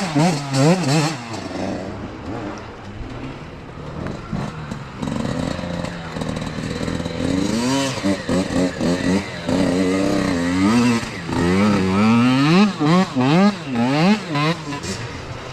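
Youth dirt bike engines revving up and down over and over as riders work the throttle through the course. The sound dips for a few seconds about two seconds in, then picks up again with overlapping engines.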